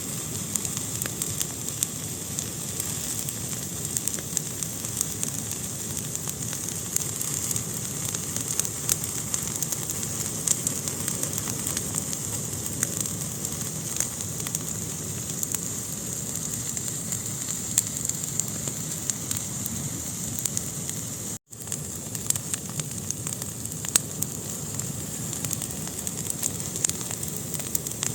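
Fire burning in a fireplace: a steady hiss with frequent small crackles and pops. The sound drops out for an instant about two-thirds of the way through.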